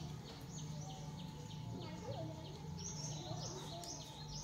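Birds chirping: a quick regular run of short chirps, about four a second, with higher chirps over them, against a steady low hum.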